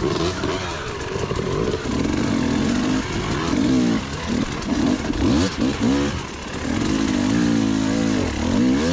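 Off-road enduro motorcycle engine revving up and falling back again and again as the rider works the throttle and changes gear, over a steady rush of wind and tyre noise.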